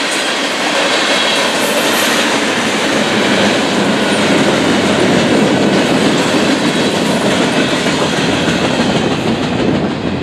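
Freight train cars rolling past at a grade crossing: a steady rumble of steel wheels on the rails with clickety-clack from the rail joints.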